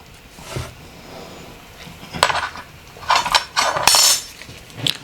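Small metal parts of a disassembled Nokia 8910i phone being handled and set down on a work surface: several light clinks and scrapes, the loudest a little after the middle.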